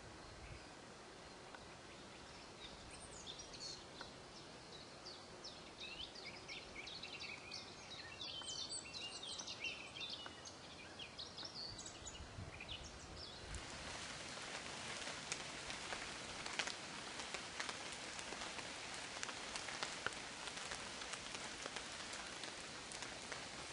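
Songbirds singing, many short chirping phrases over a faint hiss. About halfway through the chirps fade and a steady hiss with many faint crackles takes over.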